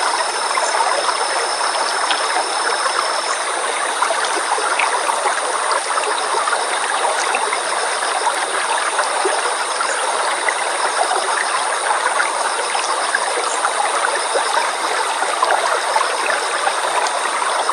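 River water flowing steadily, an even babbling rush with fine splashing texture.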